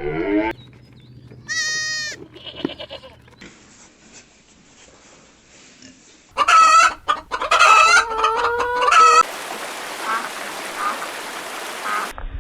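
Chickens calling in several short clips cut together: a few separate calls early on, then a loud run of repeated squawks and clucks for a couple of seconds about six seconds in, followed by a noisy stretch with faint calls.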